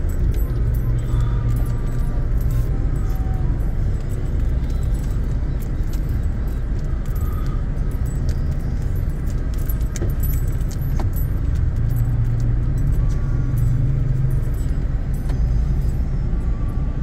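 Steady low rumble of a car in traffic, with light jingling and scattered clicks over it.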